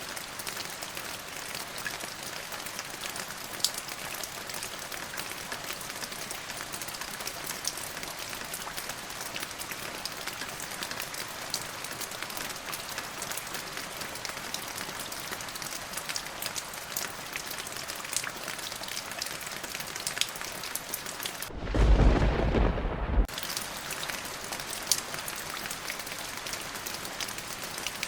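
Steady rain falling, an even hiss with fine drop crackle. About 22 seconds in, a single short, deep thunderclap rumbles for under two seconds, the loudest moment, then the rain carries on.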